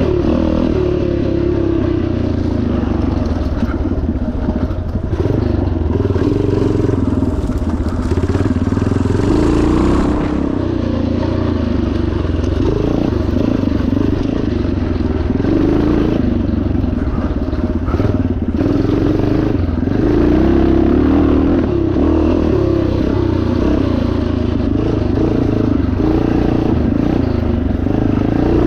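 1977 Yamaha TT500's single-cylinder four-stroke engine running hard under load, revs rising and falling continuously, with some clatter.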